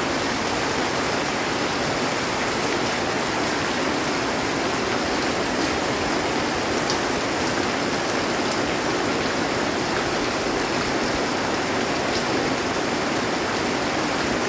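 Heavy rain falling steadily on a metal roof, an even unbroken hiss with a few faint drop ticks.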